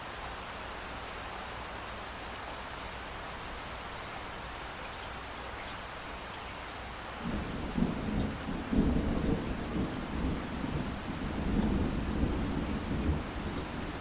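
Steady hiss of rushing water. About halfway through, a much louder low rumble sets in and rolls on, swelling and fading, to the end.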